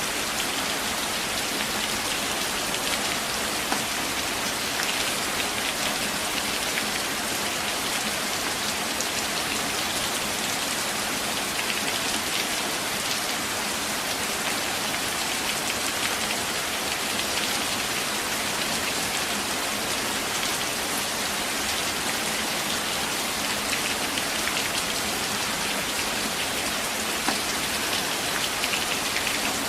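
Steady rain falling on forest leaves and branches, an even hiss of drops.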